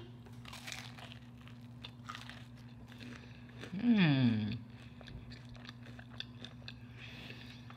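Close-up crunching bite and chewing of a crisp-shelled cheesecake bite, with small crackly clicks throughout. About four seconds in, a short falling 'mmm' of enjoyment.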